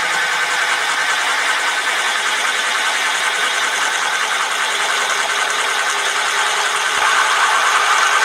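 Metal lathe running steadily: a continuous mechanical running noise with a steady mid-pitched whine, a little louder near the end.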